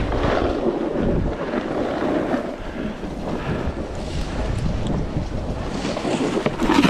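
Wind rushing over the microphone while snowboarding downhill, mixed with the board running through snow. There is a louder swell near the end.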